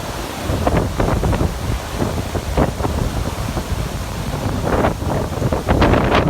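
Wind buffeting the microphone, with sea surf behind it. Irregular surges of noise come and go, the strongest about five to six seconds in.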